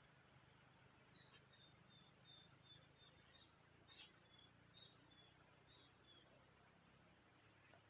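Faint forest ambience: a steady high drone of insects, with a run of short, high chirps at about two a second from about a second in until about six seconds.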